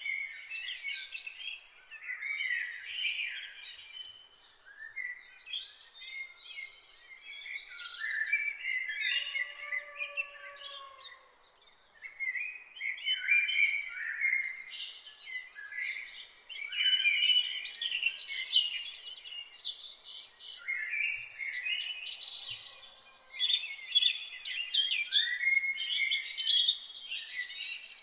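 Dawn chorus of several songbirds singing at once: dense, overlapping high chirps, whistles and trills that keep going, with a fainter lower-pitched call about ten seconds in.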